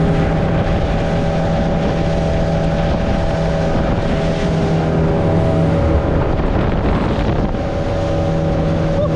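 Motorboat engine running at a steady speed under way, with wind buffeting the microphone.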